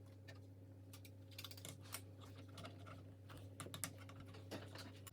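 LEGO pieces clicking and tapping as they are handled and pressed together: faint, irregular light clicks over a steady low hum.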